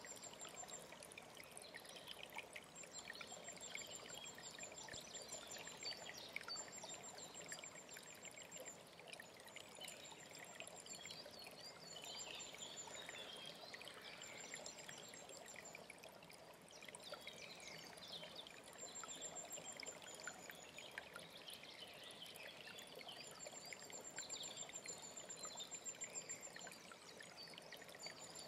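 Alpine stream flowing steadily under small birds singing. A very high, rapid trill lasting a second or so recurs about every two to three seconds, mixed with scattered chirps.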